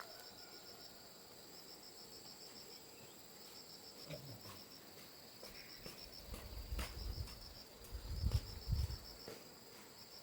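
Crickets chirping in short trills of rapid pulses, repeating about once a second, over a faint steady high tone. A few dull low thumps come in the second half.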